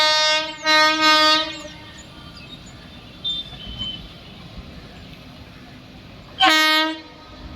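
Indian express train's horn sounding in three blasts: one ending about half a second in, a second lasting about a second, and a short one near the end. A steady lower rumble and background noise fill the gaps between blasts.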